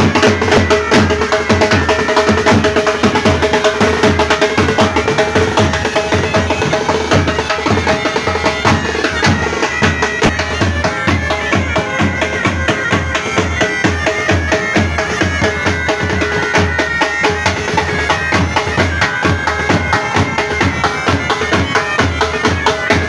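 A pipe band playing: bagpipes with their steady drone under the melody, and drums beating a regular rhythm.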